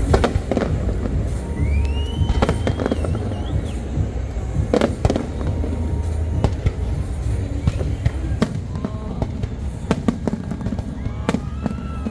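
Large display fireworks going off in quick succession: many sharp bangs at irregular intervals over a continuous low rumble of shell bursts.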